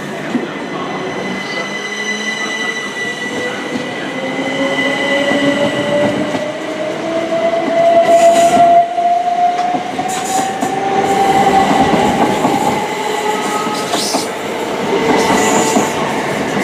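Southern Class 377 Electrostar electric train pulling away, its traction motors whining steadily higher in pitch as it accelerates, with the rumble and clatter of wheels on the rails.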